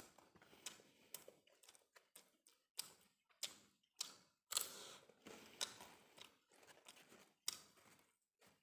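Close-miked mouth sounds of a man eating by hand: quiet, irregular sharp wet clicks, smacks and crackles of chewing, the loudest about four and a half seconds in as he bites into a piece of food.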